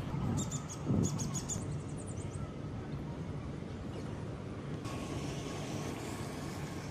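Outdoor ambience: a steady low rumble, with a small bird giving a quick run of short, high chirps in the first two seconds and a single low thump about a second in.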